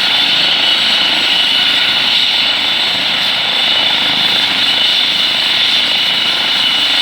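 RAF helicopter running steadily on the ground during its warm-up before take-off: a constant rush of engine and rotor noise with a steady high whine.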